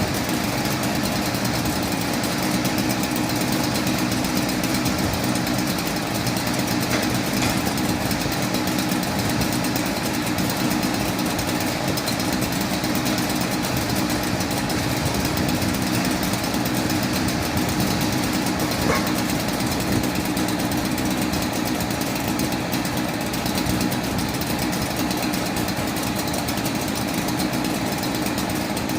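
Fire rescue truck's engine idling steadily with an even rumble and no change in speed.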